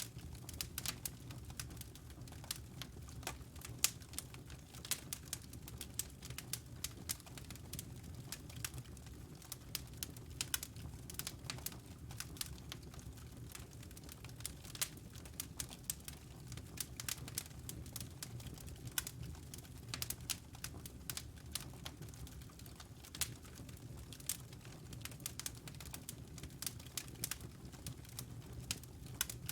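Wood fire burning in a fireplace, crackling with frequent irregular pops and snaps over a low steady rumble of the flames.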